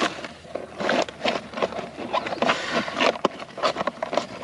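An irregular patter of short splashes and knocks, with no steady tone: water and gear being handled while wading through a mangrove creek.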